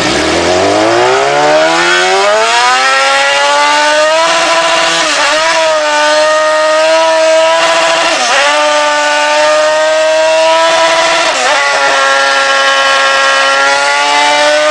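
Motorcycle engine run hard on a dynamometer: it climbs steadily in pitch over the first few seconds, then holds at high revs, dipping briefly and recovering about five, eight and eleven seconds in.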